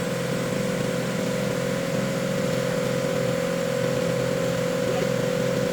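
A machine running steadily at constant speed, giving a steady hum with one clear, unchanging pitch.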